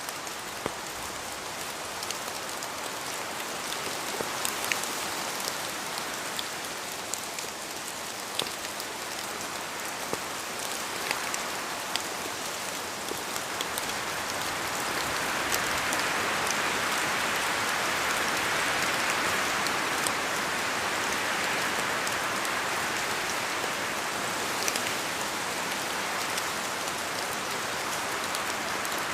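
Steady rain: a continuous hiss with many single drops ticking through it, growing louder for several seconds in the middle.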